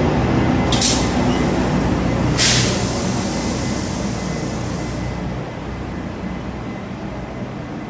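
Taiwan Railways train rumbling at the platform, fading away. Two short hisses of air about one and two and a half seconds in.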